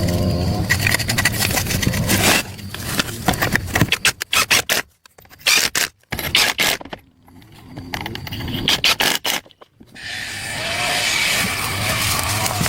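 Rough scraping in quick, irregular strokes, broken by a few short pauses around the middle, then settling into a steadier rasping noise near the end.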